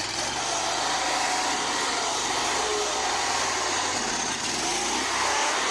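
Predator 670 V-twin engine running steadily, its pitch rising briefly about four seconds in as it revs.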